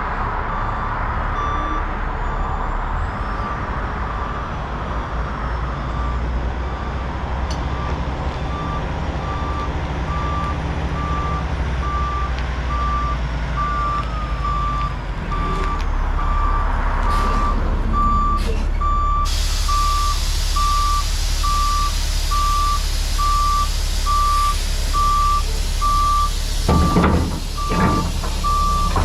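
Heavy equipment backup alarm beeping steadily at an even pace over a running diesel engine, with a few knocks near the end.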